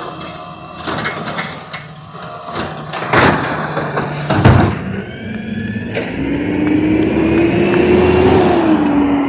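Amrep garbage truck at work: its engine runs under mechanical noise, with a short hiss about three seconds in and a loud bang a second and a half later. The engine then revs up in a slow rising whine that drops back near the end.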